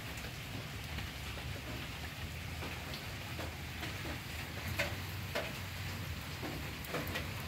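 Steady rain falling, with scattered single drops ticking sharply on nearby surfaces.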